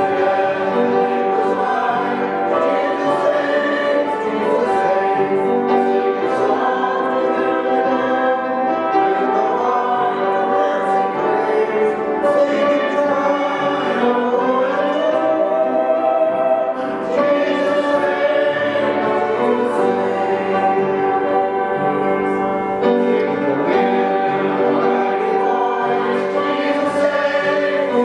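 A church congregation singing a hymn, many voices together in sustained sung lines without a break.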